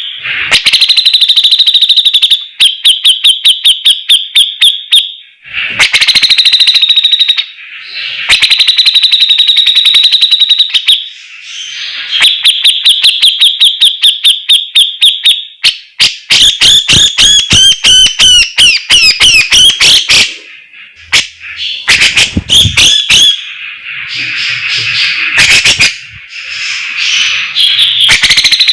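Cucak jenggot (brown-cheeked bulbul) singing loudly. It gives bursts of rapid, piercing repeated notes a few seconds long, broken by buzzy trills and chattering phrases, with short pauses between bursts.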